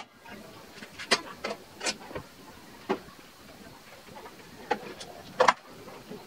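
Scattered knocks and taps of wooden pieces being handled and set down, about seven at irregular spacing, the loudest near the end.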